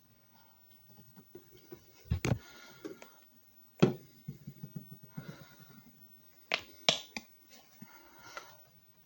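Handling noises: a few sharp clicks and knocks, one about two seconds in, one near four seconds and a close pair near seven seconds, with faint rustling and shuffling between them.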